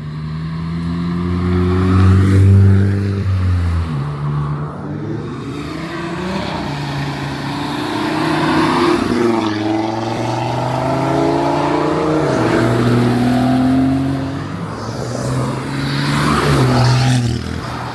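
Cars driving past one after another, their engines revving, the pitch rising and dropping as they accelerate and change gear. The loudest pass comes about two to three seconds in.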